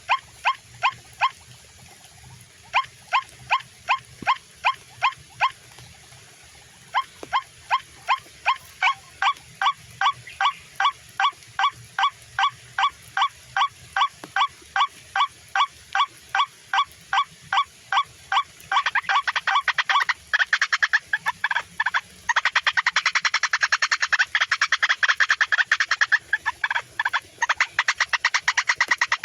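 White-breasted waterhen (ruak-ruak) calling: a steady, rhythmic run of harsh calls, about three to four a second, pausing briefly twice. From about two-thirds of the way in the calls grow louder and denser.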